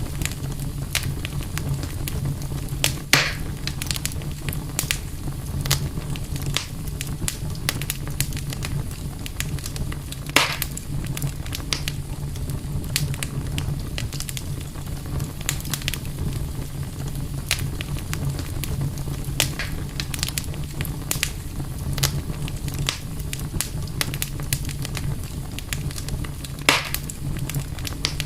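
Campfire crackling steadily with many small snaps over a low rumble, and three louder pops: one a few seconds in, one about a third of the way through and one near the end.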